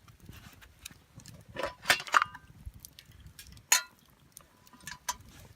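Light clinks and clacks of hard objects being handled: a quick cluster about two seconds in, then single clinks near four and five seconds, each with a brief ring.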